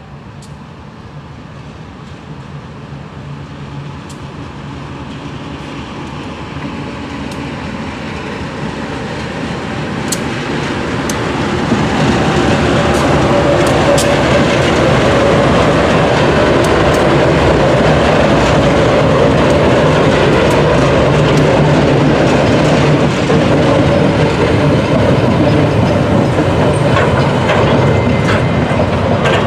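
Empty freight train of bauxite wagons approaching and passing: a low diesel locomotive hum grows steadily louder over about twelve seconds. The long string of empty wagons then rolls by with a steady wheel-on-rail clatter and scattered clicks.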